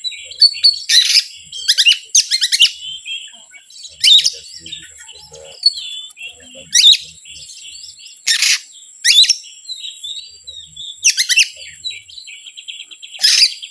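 Oriental magpie-robin (kacer) calls: loud, sharp chirps and harsh notes repeated about once a second, the kind of call used to lure the bird. A faint steady high whine runs behind them.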